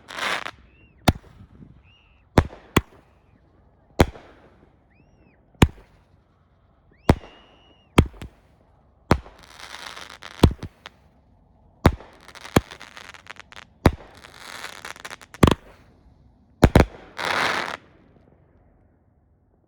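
A 200-gram Sunwing T.N.T.B.A.M firework cake firing its shots: sharp bangs about a second apart, a few with a short whistle and several followed by spells of crackling. It stops about a second before the end.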